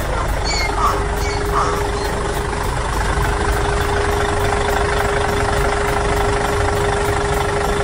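Tractor engine idling steadily, with a constant hum.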